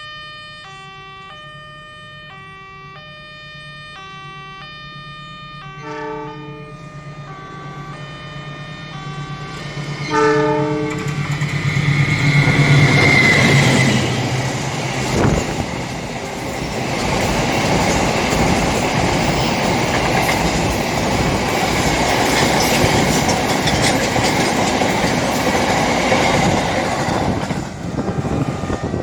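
A level-crossing warning alarm chimes in a repeating two-tone pattern while an Indonesian freight train's diesel locomotive approaches and sounds its horn twice. The locomotive and its freight wagons then pass close by with loud rumbling and wheel clatter on the rails, and the crossing alarm is heard again near the end.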